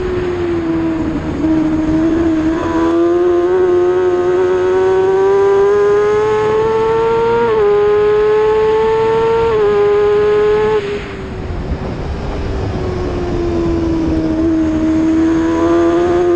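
Racing motorcycle engine under hard acceleration, its pitch climbing through the revs with two quick upshifts that each drop the pitch. About eleven seconds in the throttle closes and the revs sink, then the engine pulls hard again near the end.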